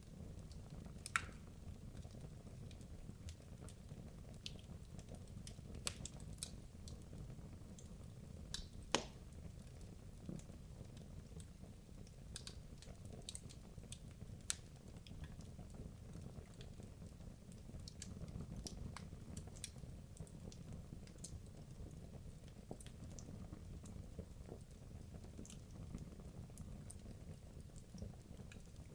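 Wood logs burning in a fireplace: a low steady rumble of the flames with scattered sharp crackles and pops, a few louder snaps standing out.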